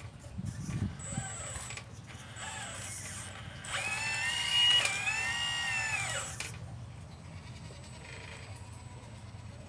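Electric hydraulic pump of a 1/12-scale RC excavator whining in short bursts, then one longer run in which the pitch rises, sags slowly as the motor takes load, and stops. A thin high electronic tone sounds with the bursts.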